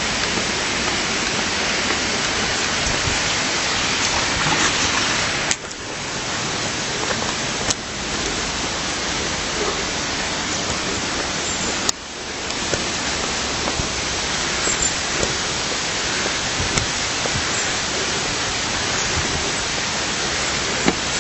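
Steady rush of flowing water, broken by two short sudden dips in level about five and twelve seconds in.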